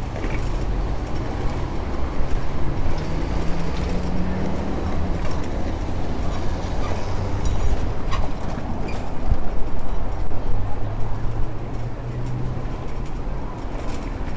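Wind rumbling on the microphone of a moving bicycle over city street traffic. A motor vehicle's engine hum swells as it passes, twice.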